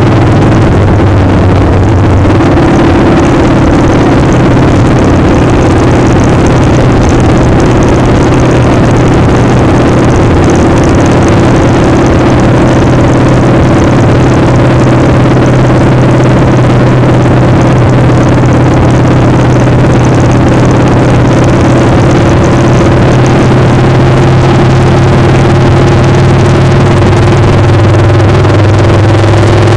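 Motorcycle engine running at a steady speed, loud and close, with a dense rush of wind noise over it. The engine note shifts slightly about two seconds in and again near the end.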